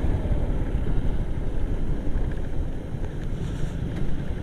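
Wind rumbling over the microphone of a moving Suzuki Gixxer SF motorcycle, with its single-cylinder engine running underneath as it descends a steep hill road.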